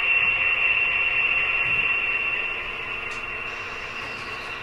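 Steady hiss with a constant high-pitched whine, easing slightly after about two seconds.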